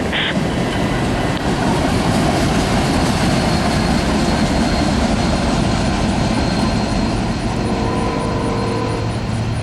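Norfolk Southern freight train rolling past, a steady loud rumble of wheels on rail. About seven and a half seconds in, a steady hum with a few pitched tones joins.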